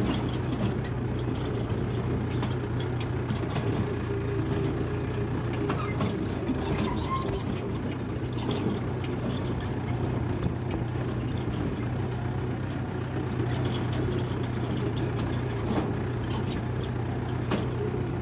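Mahindra 585 DI XP Plus tractor's diesel engine running steadily at a constant speed.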